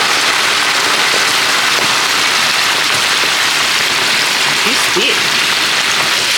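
Whole turkey deep-frying in hot oil: a loud, steady sizzle.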